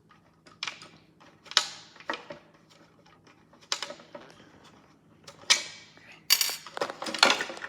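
Plastic parts of a toy washing machine clicking and knocking as it is handled and unscrewed, with a few separate sharp clicks and then a quicker run of clattering clicks near the end.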